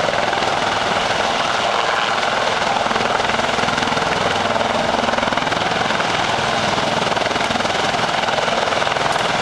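A helicopter flying, its rotor and engine noise steady and unbroken.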